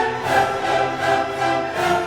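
Orchestral classical music with bowed strings playing held notes.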